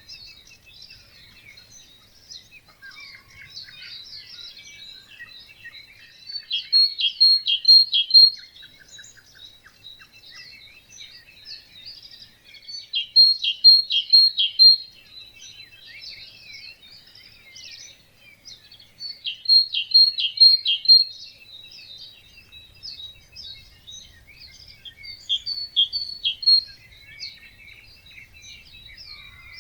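Dawn chorus of many songbirds. One nearby bird sings a loud phrase of about two seconds that ends in a run of sharp repeated notes, and it repeats the phrase four times, about every six to seven seconds.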